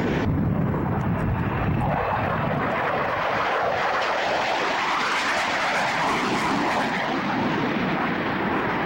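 Airplane engine noise, continuous and steady in level: a low rumble for the first couple of seconds gives way to a higher rushing sound through the middle.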